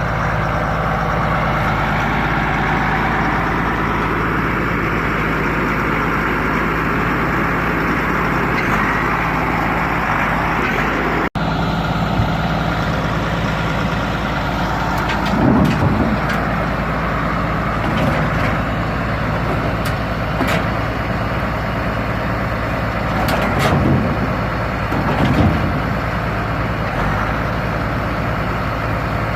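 Tractor engine running steadily close by, with a few metal clanks as the loader parts are handled.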